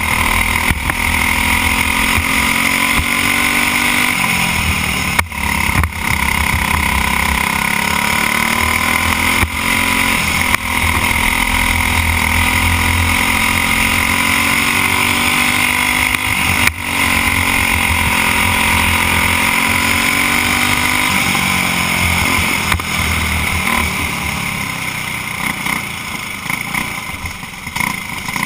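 Briggs & Stratton Animal single-cylinder four-stroke kart engine running hard under race load, heard from the driver's helmet. Its pitch drops off several times, as it slows into corners, and climbs again as it accelerates out.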